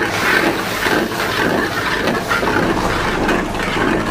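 Tomato-onion masala sizzling steadily as it fries in a large metal pan, stirred with a steel spatula.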